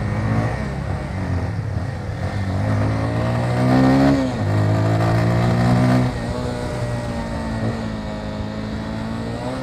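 Motorcycle engine accelerating, its pitch climbing for about a second and a half before dropping sharply at a gear change about four seconds in, pulling again, then easing off about six seconds in to a steady cruise.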